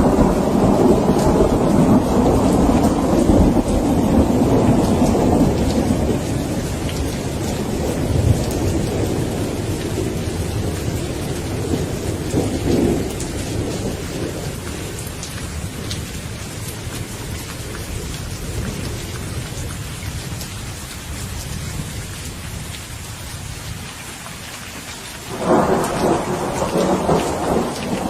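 Thunderstorm: steady rain falling with rolling thunder. A long rumble is loudest at first and dies away slowly, and a fresh peal of thunder breaks in suddenly near the end.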